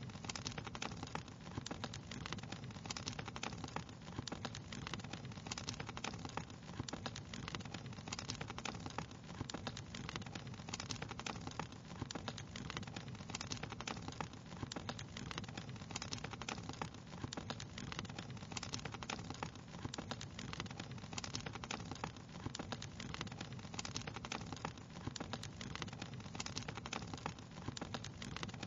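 Wood fire crackling steadily, with a constant run of small sharp pops and snaps over a low, even rumble of burning.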